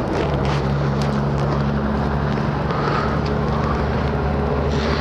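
Motorcycle engine running steadily, with a noisy rush of air over it.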